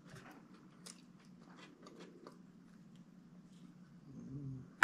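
Eating sounds: faint chewing and mouth clicks over a steady low hum. Near the end comes a short low vocal sound, then a sharp thunk, likely a bottle set down on the table.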